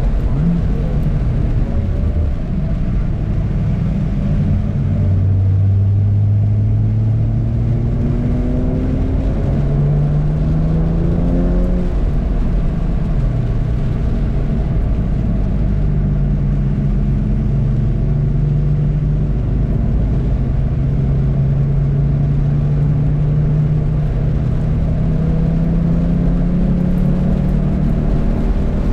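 Car engine under hard acceleration on a race track lap, its pitch climbing through each gear and dropping back at the shifts, over steady road noise.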